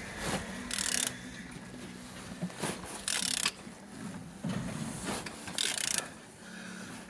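DV6C 1.6 HDi diesel engine being turned over by hand: the rotating engine rubs and clicks mechanically, with three short bursts of hiss about a second, three seconds and five and a half seconds in. It turns freely with compression on the cylinders.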